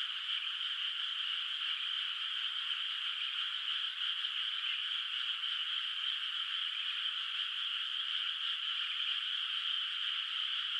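Dense, steady chorus of many frogs calling from a flooded rice paddy, the calls blending into one continuous trilling wash with no single frog standing out.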